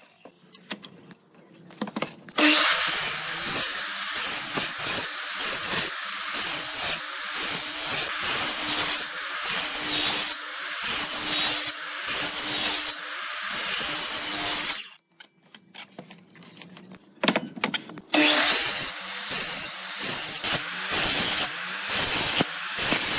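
A woodworking tool cutting or rubbing wood in two long stretches, with a short pause of about three seconds between them.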